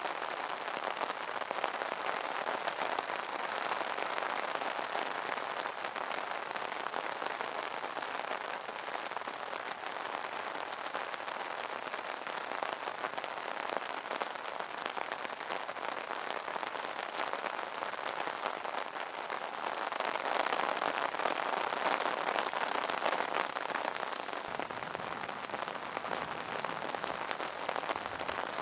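Steady rain pattering on an umbrella canopy, a dense patter of drops that swells slightly heavier about two-thirds of the way through.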